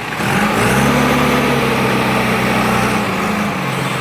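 Heavy diesel engine revving up and holding at higher revs, then easing off about three and a half seconds in.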